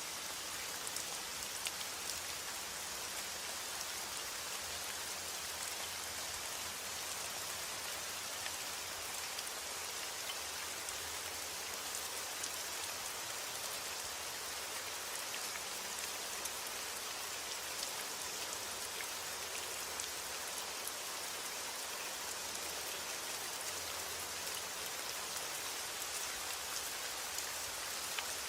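Steady rain: a dense, even hiss dotted with many sharp individual drop ticks.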